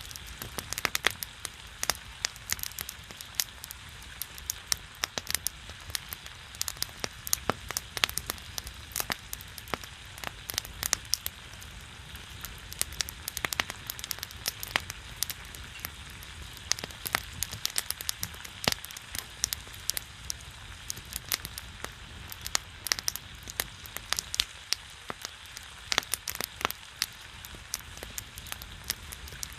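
Pork belly fat sizzling and spattering on a griddle over a burning pine wood fire: a steady hiss with dense, sharp pops and crackles.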